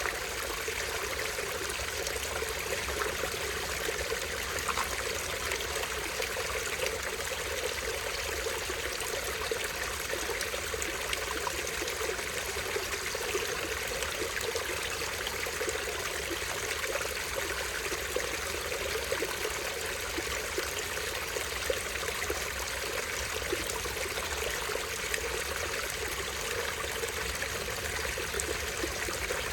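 Small stream running over rocks: a steady babble of trickling and splashing water.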